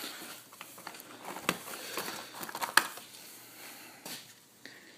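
Light clicks and taps of hand tools and metal parts being handled, over a faint steady hiss, with two sharper ticks about a second and a half and nearly three seconds in.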